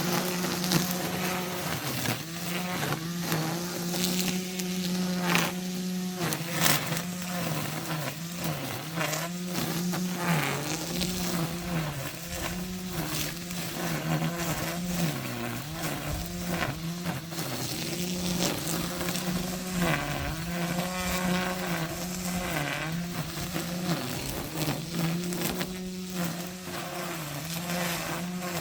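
Brush cutter running at high speed while cutting grass, its pitch dipping and recovering every second or two as the cutting head bites and frees up, with scattered crackles of vegetation being hit.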